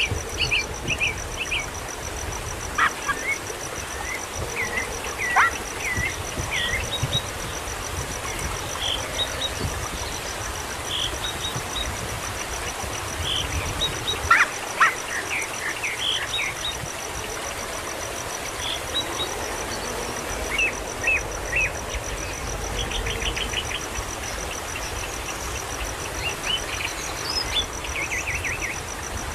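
Short bird chirps and calls scattered throughout, some in quick runs and some sweeping sharply down in pitch, over a steady, evenly pulsing high-pitched tone.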